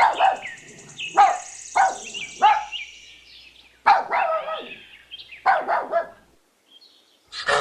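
Puppy yapping: a run of short, high barks with a thin whine between them early on, stopping about a second before the end.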